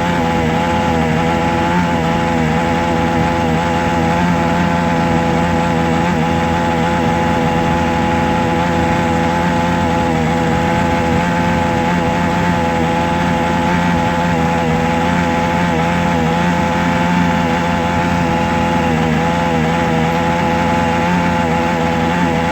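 A small motor running continuously, a steady drone whose pitch wavers slightly.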